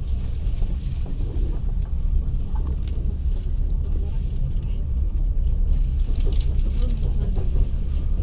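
Passenger train carriage running along the track, heard from inside: a steady low rumble of the wheels on the rails with faint scattered clicks and rattles.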